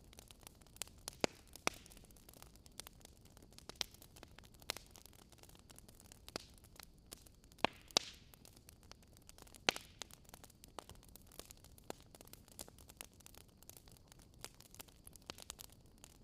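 Wood fire crackling: irregular small pops with a few louder snaps, over a faint steady hiss.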